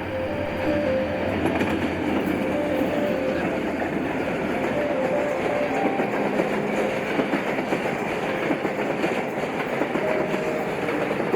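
Train running along the track: a steady rumble and rattle of wheels on rails, with faint high tones that come and go.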